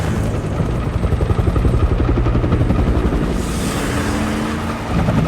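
Film chase sound mix of vehicle engines running hard, with a helicopter's rotor beating over them as a rapid low pulsing and a steady low hum. A brief rushing hiss comes about three and a half seconds in.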